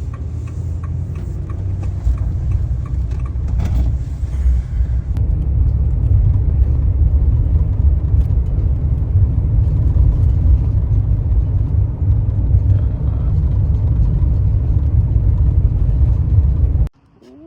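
Steady low rumble of a vehicle driving at road speed, with a faint even ticking of about two or three a second in the first few seconds; the rumble cuts off abruptly near the end.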